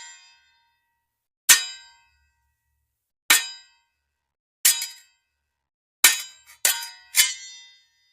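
Metal striking metal: six sharp clangs, each ringing briefly. The first three are spaced about a second and a half apart, then three more come in quick succession near the end, like weapon blades clashing.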